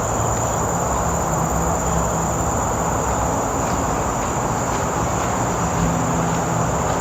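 Insects buzzing in one steady high-pitched drone over the constant rumble and hum of traffic on a nearby main road.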